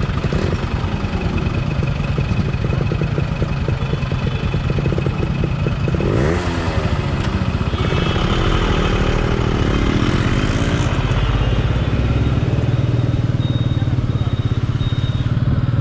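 Royal Enfield Meteor 350's single-cylinder engine and exhaust running under way, a steady rapid beat of firing pulses. About six seconds in the revs rise sharply and then ease back down.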